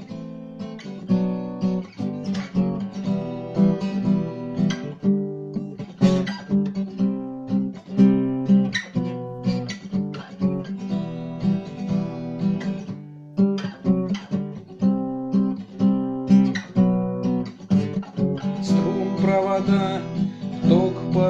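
Acoustic guitar strummed in a steady rhythm, playing the instrumental introduction of a song.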